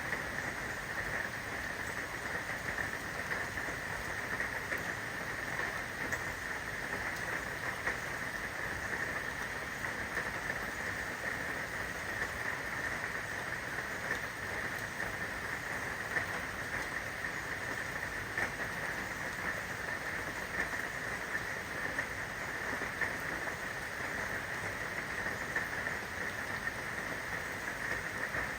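Steady rain falling, an even hiss with scattered small drop sounds.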